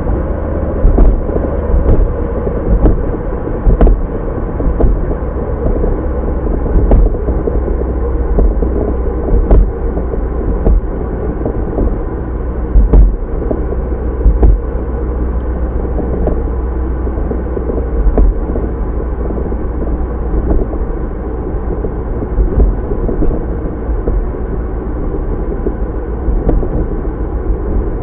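Car driving, heard from inside the cabin through a dashcam's microphone: a steady low rumble of road and engine noise, with scattered light knocks.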